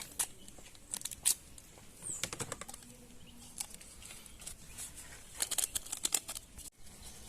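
Seasoning packet being handled and opened: scattered light crinkles and clicks of plastic, with a few short tearing sounds.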